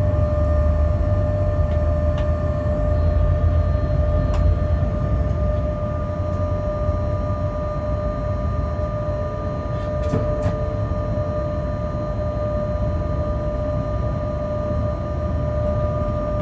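Freight locomotive cab while the train rolls slowly: a steady low rumble with several steady whining tones from the locomotive, and a few short sharp clicks.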